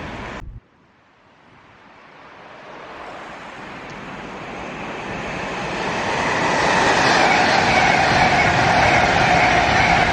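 Train approaching on the line, its rail and running noise with a steady whine growing louder over about six seconds and then holding loud. Just before it starts, the previous sound cuts off abruptly.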